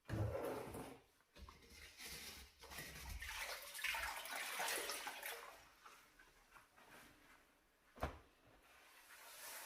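Water splashing and trickling in a small room during hand cleaning, starting suddenly and swelling again partway through, with a single sharp knock about eight seconds in.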